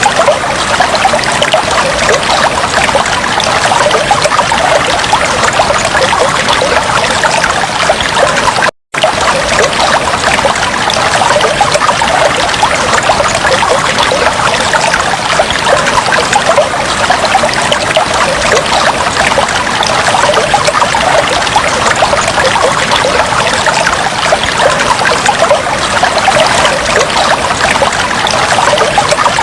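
Aquarium water trickling steadily, a dense patter of small splashes, with a brief dropout about nine seconds in.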